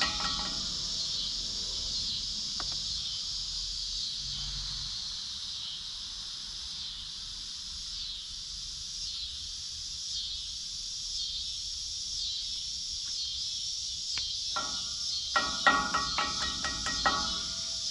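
Steady, high, pulsing insect chorus. About 15 seconds in comes a quick run of sharp metallic taps with a ringing tone: a hammer striking steel on the tractor's front wheel hub.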